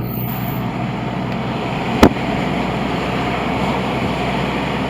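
Steady road and engine noise of a car driving, heard inside the cabin, with one sharp thump about two seconds in.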